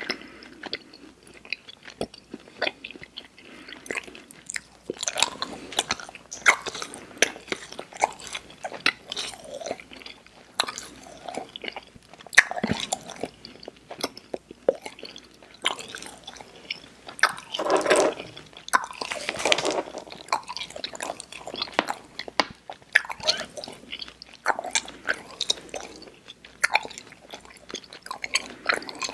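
Close-miked mouth sounds of someone chewing Airheads Xtremes sour chewy candy: steady, irregular wet smacking and sticky clicks. There is a louder burst of chewing a little past halfway.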